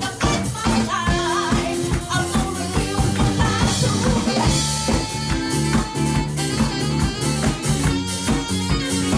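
Live rock band playing a song with a steady drum beat, guitar and a lead melody line.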